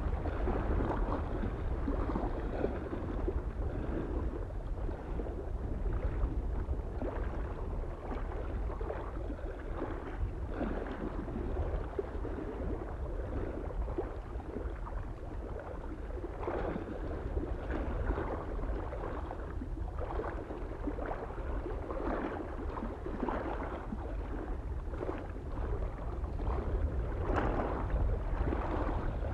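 Small waves lapping and splashing irregularly against a lake shore, over a steady low wind rumble.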